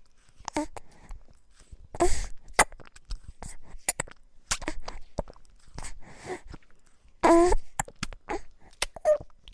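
A baby's short vocal sounds: brief grunts and squeaks, a louder one about two seconds in and the loudest, a longer drawn-out cry, about seven seconds in, amid small sharp clicks.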